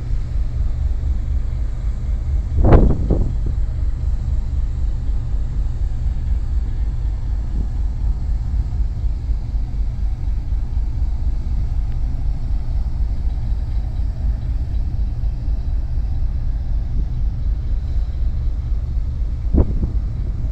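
Steady low rumble on a ferry's open deck: wind buffeting the microphone over the ship's engine drone. A sharp bump stands out about three seconds in, with a smaller one near the end.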